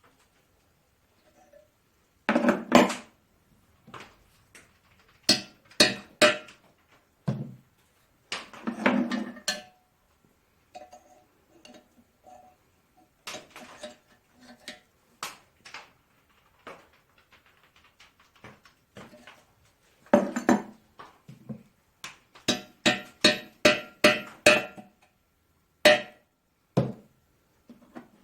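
Hammer striking a cape chisel to work a seized, broken-off brass pipe thread out of the drain hole of an old engine block. It comes in irregular bursts of sharp metallic strikes that ring briefly, with a quick run of light taps about three a second near the end.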